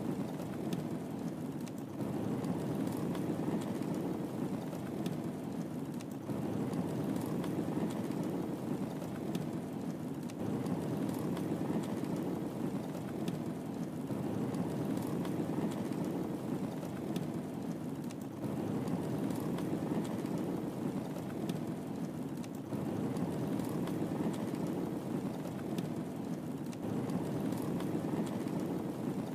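Wood fire burning in a fireplace: a steady low rush of flames with scattered small crackles and pops.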